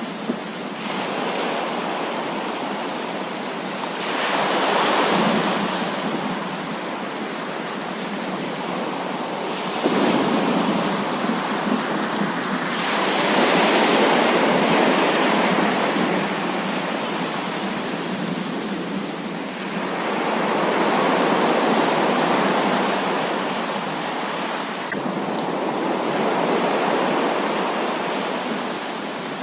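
Heavy rain falling in a continuous hiss that swells louder and eases off again every few seconds, like gusts driving the downpour.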